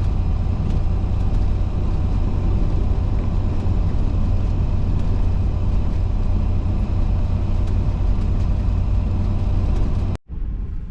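Steady, loud low rumble of a semi truck in motion, heard from inside the cab: engine, road and wind noise. It cuts off abruptly about ten seconds in, and a quieter background follows.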